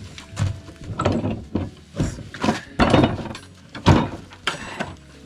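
Uneven wooden scraping and knocking strokes, about two a second, as the sticking edge of a wooden door is cut down.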